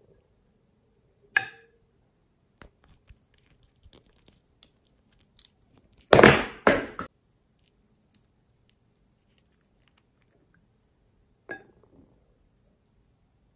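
Slime being squeezed and poked by hand: a sharp wet pop about a second in, a loud crackling squish in two quick bursts about six seconds in, and another pop near the end, with faint small clicks and squelches between.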